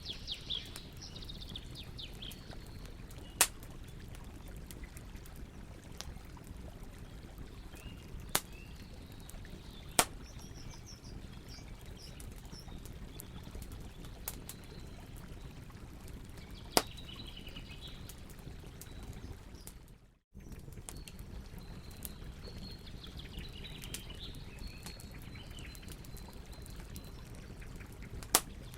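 Campfire crackling over steady flowing water, with about five sharp pops from the fire and birds chirping now and then.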